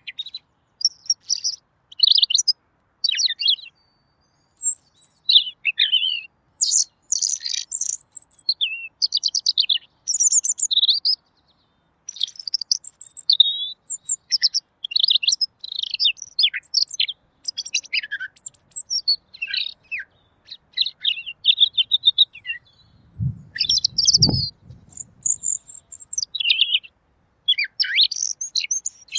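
Pekin robin singing: quick, clear phrases of chirps, trills and warbles, high-pitched, with short pauses between them. A low thud comes about 24 seconds in.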